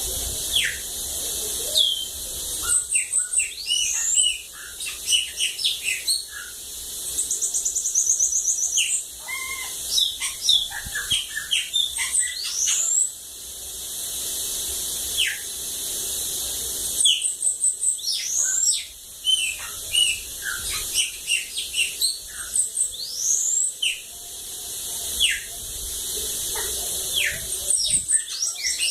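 Bananaquit singing in repeated phrases of high, thin, rapid notes, with quick rising and falling sweeps and short trills, separated by brief pauses. A steady high hiss runs underneath.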